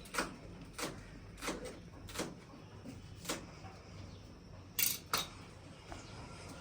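Kitchen utensils clinking and knocking: a run of sharp single taps, one every half second to a second, with two close together about five seconds in.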